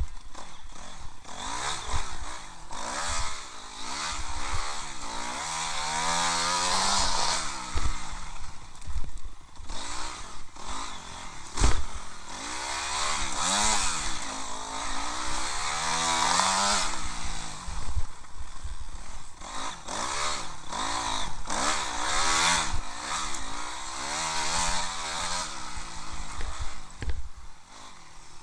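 Honda CRF250R single-cylinder four-stroke motocross engine revving up and falling back again and again as the rider works the throttle around the track, with wind rushing over the helmet camera. Sharp knocks come through now and then, the hardest about twelve seconds in.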